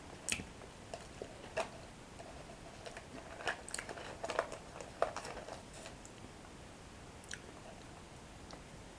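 Chewing of crunchy toasted bread sticks: irregular crisp crunches, single ones at first and near the end, and a busier run in the middle few seconds.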